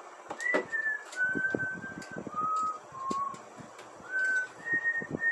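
A person whistling a short tune: about a dozen clear held notes stepping down in pitch and then back up. Light clicks and taps of plastic toy parts being handled sound underneath.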